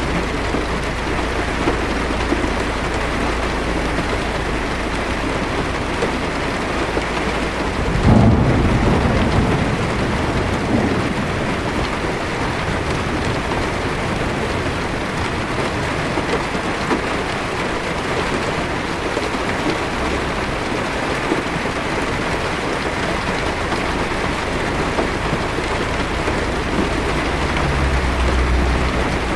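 Heavy rain drumming steadily on a car's roof and windshield, heard from inside the car. About eight seconds in, a thunder clap breaks in and rumbles away over a few seconds, with a fainter low rumble near the end.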